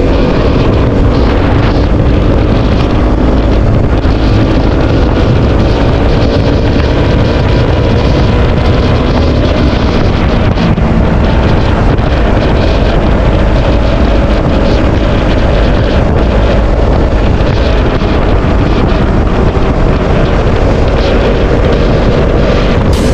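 KTM RC 200's single-cylinder engine running at a steady cruise while riding, largely buried under loud wind rush on the camera's microphone.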